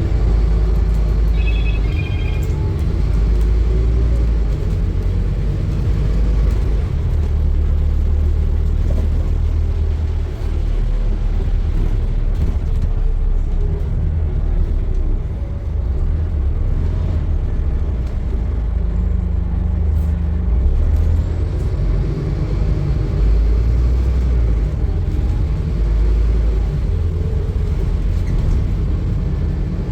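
Scania N230UD double-decker bus on the move: a steady low engine and drivetrain rumble whose whine rises and falls in pitch as the bus speeds up and slows. A short run of high beeps sounds about two seconds in.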